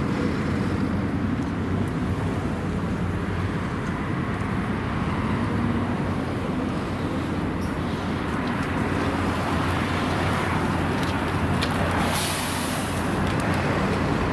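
MAN A23 articulated city bus engine running steadily, with a short hiss about twelve seconds in.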